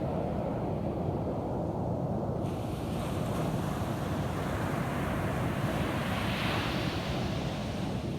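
Ocean surf breaking on a beach: a steady low rumble of waves, with the hiss of a wave washing up the shore swelling about six seconds in.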